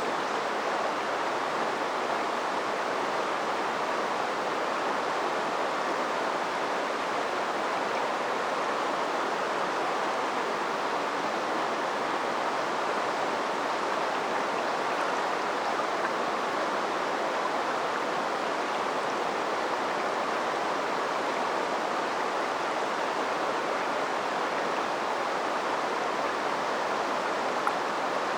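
A river flowing over its bed: a steady rushing of water with no breaks or separate events.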